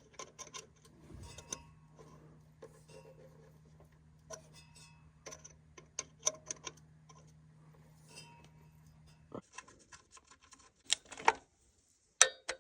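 Light, scattered metallic clicks of a hand ratchet slowly turning a bolt into a re-tapped transmission pan hole, under a faint steady hum that cuts off about three-quarters of the way through. A sharp single click near the end as the torque wrench reaches about 10 pounds.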